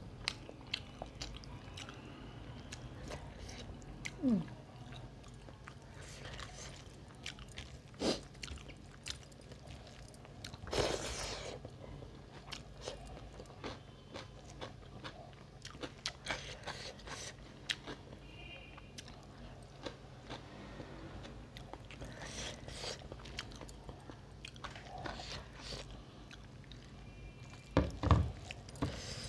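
Close-miked chewing of rice, fish curry and spiced potato, eaten by hand, with wet mouth clicks and lip-smacking throughout. A few louder knocks come near the end.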